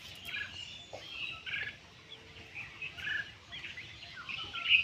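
Bulbuls chirping: a string of short, high calls and brief whistled notes at irregular intervals, with a light hiss behind them.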